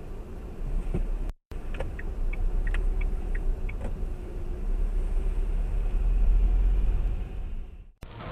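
Low rumble of a car's engine and road noise heard from inside the cabin, building to its loudest about six seconds in. It is broken twice by brief silent gaps, with a few faint ticks early on.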